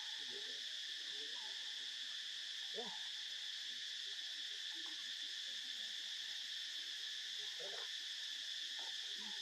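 Steady chorus of insects, an unbroken high shrill, with a few faint brief sounds underneath.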